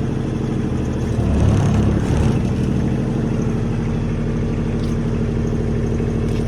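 A small utility vehicle's engine running steadily, surging louder for about a second as it is driven forward a little.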